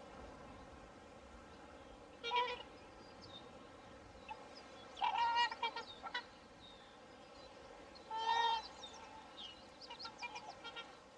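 Swans calling with short, nasal honking calls: one about two seconds in, a run of several around five seconds, a longer one near eight seconds and fainter short calls near the end, over a steady background hiss.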